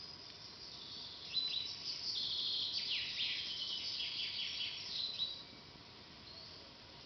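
Forest songbirds singing: high chirps and quick downward-sliding notes, busiest from about a second in until about five seconds, over a faint steady hiss.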